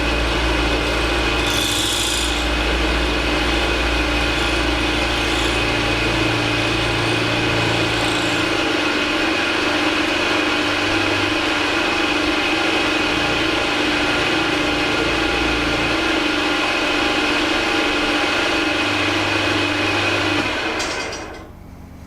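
Machine tool running and cutting metal, a steady whine with a rasping edge, winding down near the end.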